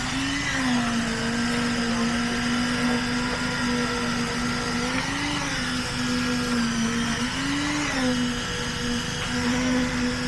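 Construction machine's engine running steadily with a high-pitched hum. Its pitch rises and falls back briefly three times.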